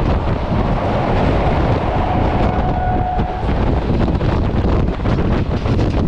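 Wind buffeting the microphone over the running rumble of a moving passenger train, heard from an open coach door.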